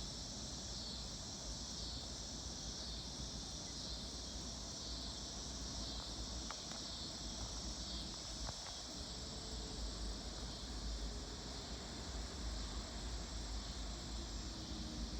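A steady high-pitched insect chorus, crickets or similar, trilling without a break over a low rumble, with a couple of faint clicks about halfway through.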